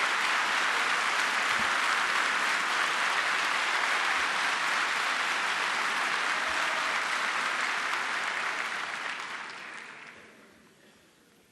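Large indoor audience applauding steadily, the clapping dying away over the last two seconds or so.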